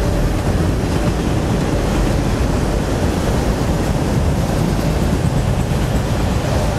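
Autorack freight cars of a CSX train rolling past: a steady rumble of steel wheels on the rails.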